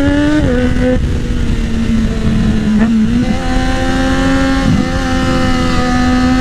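Triumph Daytona 675R's three-cylinder engine breathing through a full Lextek exhaust, riding under power. The revs drop back about half a second in, then hold nearly steady with a short dip around three seconds in and a brief wobble near five seconds, before climbing slowly near the end. Wind rushes over the microphone underneath.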